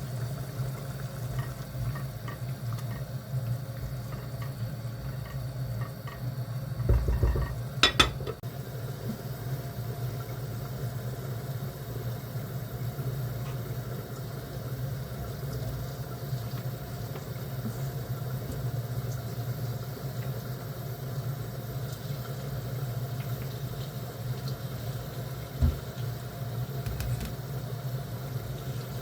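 Kitchen work: dishes, pots and utensils clinking and knocking over a steady low hum, with a louder clatter about seven to eight seconds in and another knock near the end.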